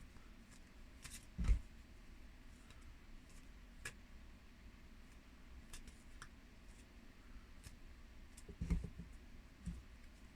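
Oracle cards being handled on a table: faint, scattered light clicks and ticks, with a soft thump about a second and a half in and another near the end.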